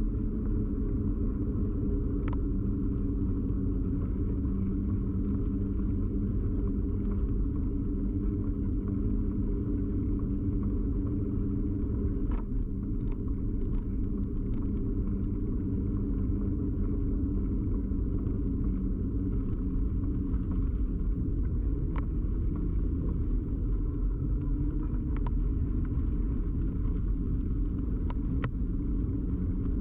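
Steady rumble of a bicycle ride carried into a bike-mounted camera: tyre and frame vibration, with a few short sharp clicks along the way.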